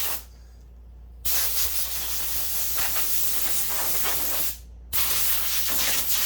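Compressed-air blow gun hissing in blasts that start and stop abruptly: a short one, a pause of about a second, a long blast, a brief break, then another long blast. The air is blowing sanding dust off clothing.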